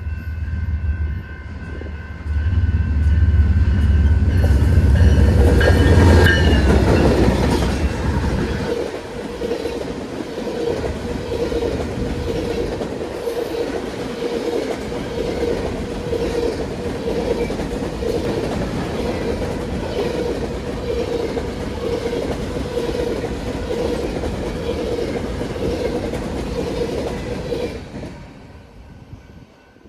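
BNSF grain train passing: the lead diesel locomotives go by with a loud low engine rumble for about the first eight seconds, then the covered hopper cars roll past with steady wheel clatter and a held tone. The sound cuts off suddenly about two seconds before the end.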